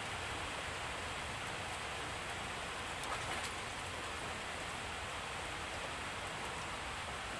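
Steady rain falling, an even hiss, with a couple of faint taps about three seconds in.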